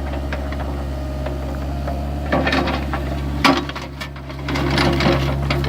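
Excavator's diesel engine running steadily, with a stretch of scraping clatter in the middle and a sharp knock about three and a half seconds in.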